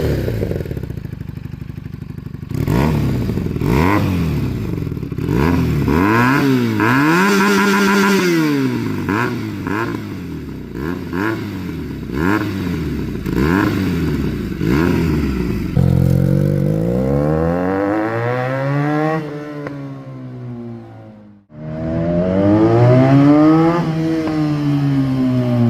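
Benelli 300's parallel-twin engine through an IXIL aftermarket exhaust, briefly idling and then revved repeatedly, the pitch climbing and falling with each blip. In the second half the revs are longer and slower, and the sound briefly drops out a little over 21 seconds in.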